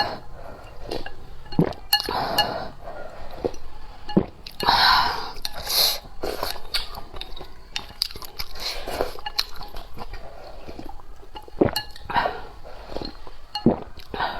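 Eating sounds: utensils clinking against a bowl and chewing, with several louder noisy stretches of about a second spread through.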